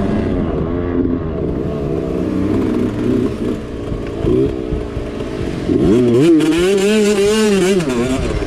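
Mini bike engine revving up and down as it is ridden hard off-road. About six seconds in the revs climb steeply, hold high for a moment, then drop back near the end.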